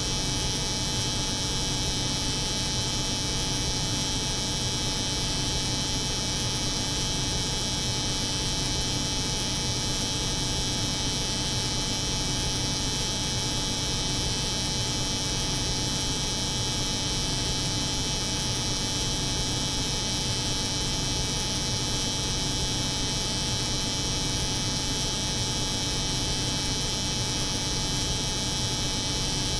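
Steady electric hair clipper buzz layered over the hum of a cold room's refrigeration, an even drone that never changes.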